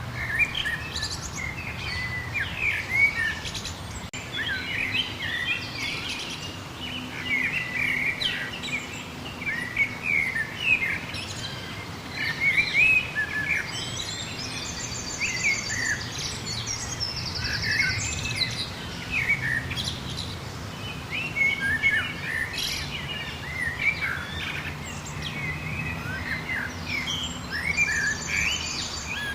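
A chorus of many songbirds chirping and singing over one another without pause, with a fast, buzzy trill about halfway through and again near the end. A steady low hum runs underneath.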